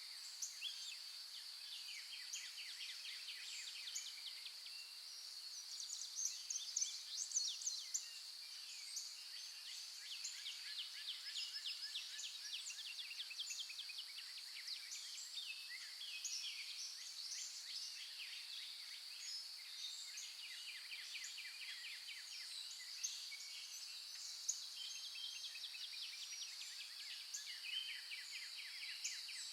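Many small songbirds chirping and trilling together, one quick call on top of another, over a steady high-pitched drone.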